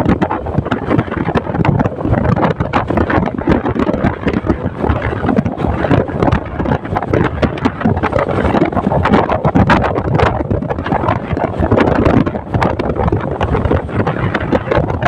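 Wind buffeting the microphone of a moving motorcycle, with road and engine noise underneath in a loud, ragged rush.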